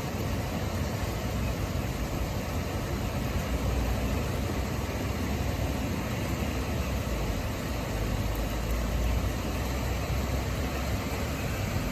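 Heavy rainstorm with strong wind: a steady, even hiss of rain and wind over a deep rumble, with no thunderclap.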